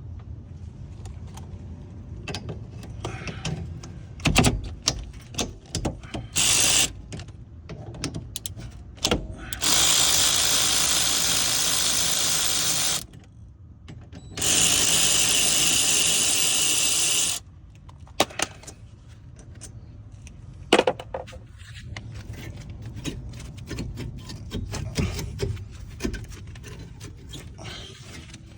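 Power tool run in two bursts of about three seconds each, with a shorter one before them, taking off fasteners at the start of a rear brake job. Clanks and clicks of tools and metal parts come in between.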